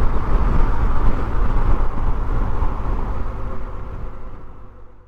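BMW R1250GS boxer-twin motorcycle engine running at road speed under a haze of wind noise, fading away near the end.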